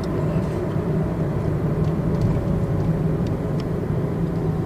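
Hyundai i20 petrol hatchback driving on a highway: a steady low drone of engine and road noise.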